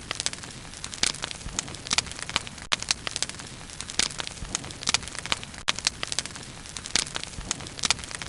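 Bonfire burning: irregular sharp crackles and pops over a steady low hiss.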